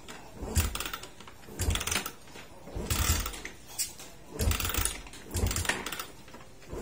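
Motorcycle engine being cranked over and over, about six short attempts roughly a second apart, each firing briefly without catching: a hard-starting engine that will not keep running.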